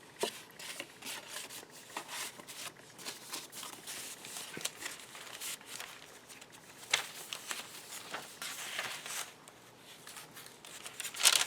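Paper pages and inserts of a handmade journal being handled and turned: irregular rustling and crinkling with small ticks, and a louder rustle near the end.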